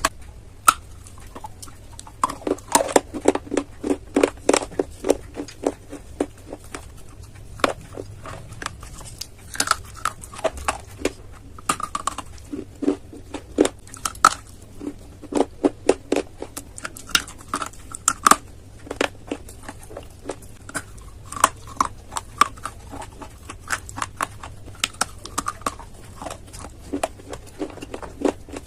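Close-miked biting and chewing of hard, brittle clay: runs of sharp crunches come a few to the second, in bursts separated by short pauses.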